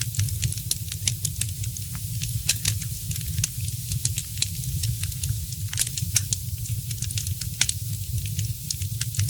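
Fireplace fire crackling, with many small, irregular sharp pops and snaps over a steady low rumble.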